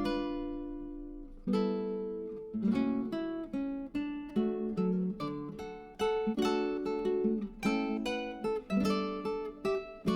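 Background music: acoustic guitar strumming chords that ring and fade between strums.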